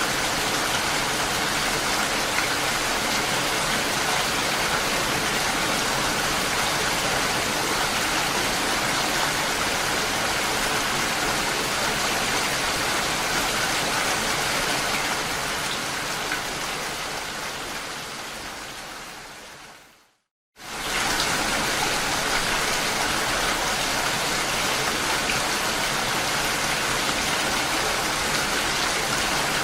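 Steady rain falling. About two-thirds of the way through it fades out to a moment of silence, then cuts straight back in at full level, like a loop point in a recording.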